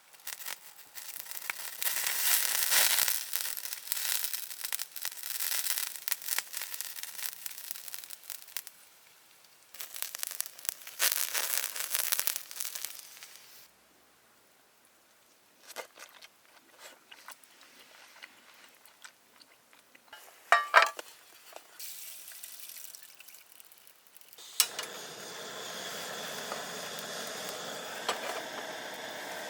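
Campfire cooking sounds: stretches of crackling and crunching noise, then a steady frying sizzle over the last five seconds or so.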